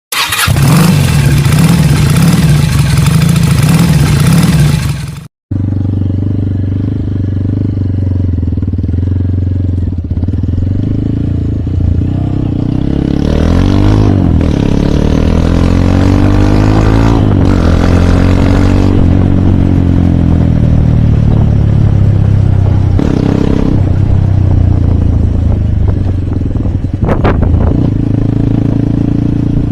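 Hero Hunk's single-cylinder four-stroke engine running under way, its pitch rising and falling a few times in the middle as the rider works the throttle and gears. A loud opening sound cuts off about five seconds in, before the engine is heard.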